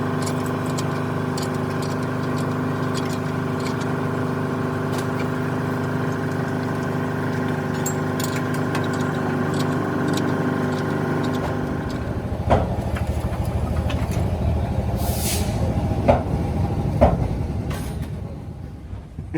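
A machine running steadily with a hum made of many steady tones. About twelve seconds in it changes to a rougher, lower running noise with a few sharp clinks.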